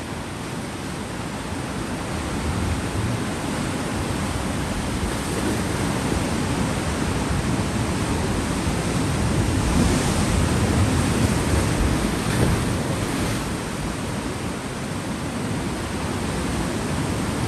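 Ocean surf and wind: a steady rushing noise of waves with wind, swelling about two-thirds of the way through and easing off again.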